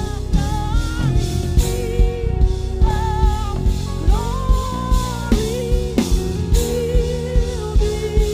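A worship band playing a slow instrumental passage: drum kit keeping a steady beat under guitar, with a wavering lead melody line on top.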